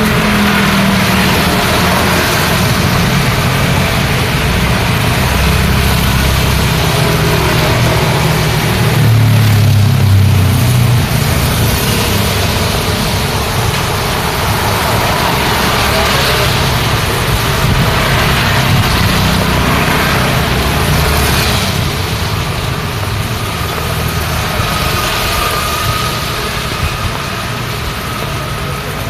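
Road traffic in the rain: engines of cars and motorbikes running and passing over a steady hiss of rain and wet tyres, with the engine rumble swelling about a third of the way through.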